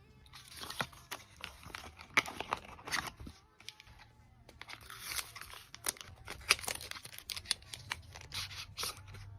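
Product packaging being handled and torn open: rustling and tearing in two long stretches, a short pause between them, with sharp clicks and taps mixed in.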